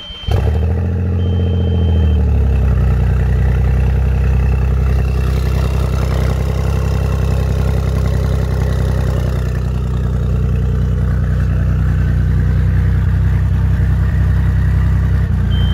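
Audi A6 2.7T twin-turbo V6 starting up about a third of a second in. Its revs fall over the first two seconds, and then it idles steadily and loudly. It has no downpipes fitted, so the exhaust is open straight after the turbos.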